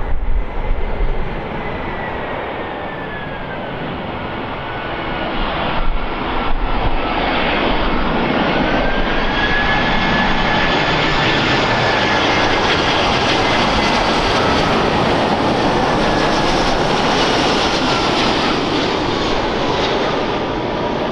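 Airbus A320 airliner's jet engines during landing: a steady rushing roar with a whine that glides up and down in pitch, growing louder about seven seconds in and staying strong.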